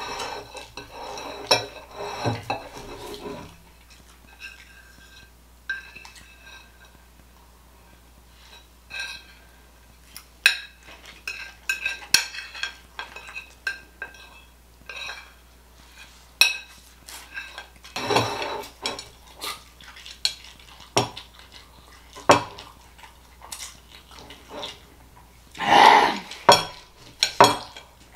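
Cutlery clinking and scraping against a plate during eating: scattered sharp clicks, with a few longer, louder stretches near the start, about two-thirds through, and near the end.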